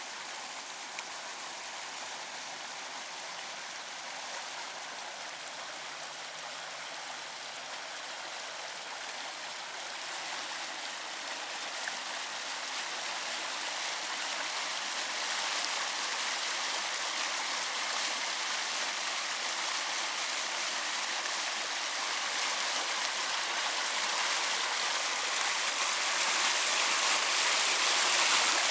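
Rain-swollen creek in a desert wash rushing steadily, growing louder through the second half.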